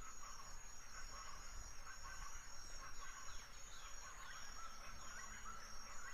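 Faint outdoor background with a thin, steady high-pitched tone and a scatter of short, quick bird chirps from about two seconds in.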